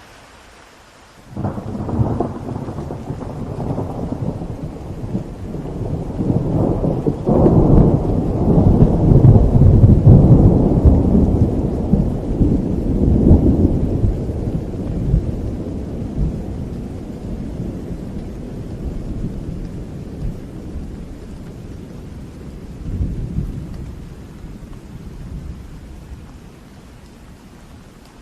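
A peal of thunder over rain: a sudden crack about a second in, then a long low rumble that grows to its loudest around the middle and slowly fades, with a smaller swell near the end.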